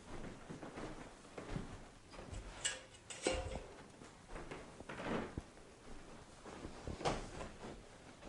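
A handful of short knocks and clunks, one about three seconds in with a brief ringing tone.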